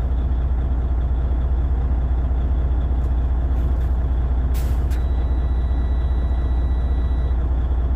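Freightliner semi truck's diesel engine idling steadily with a deep rumble. About halfway through there is a short burst of air hiss, followed by a faint high steady tone.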